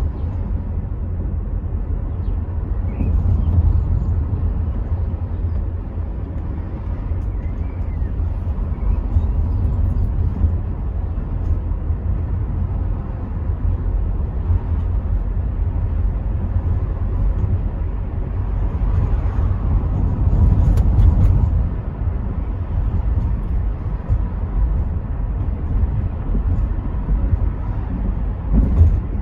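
In-cabin driving noise of a Rover 75 V6 Tourer: a steady low rumble of engine and tyres on the road, with wind through partly open windows, swelling a little about two-thirds of the way through.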